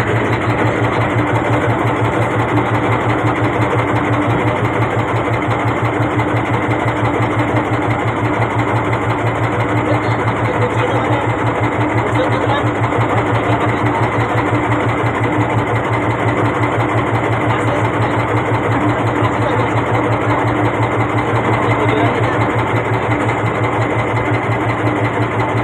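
Small boat engine running steadily with a fast, even beat.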